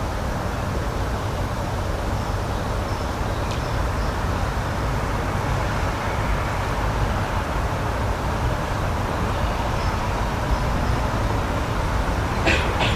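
Steady outdoor rushing noise, even and continuous, heaviest in the low range, with a few brief high chirps about three seconds in and again near the end.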